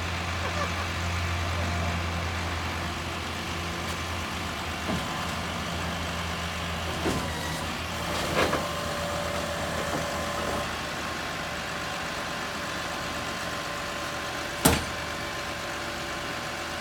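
Tow truck engine running steadily while a box truck is unloaded, with a few scattered clunks and one sharp bang near the end.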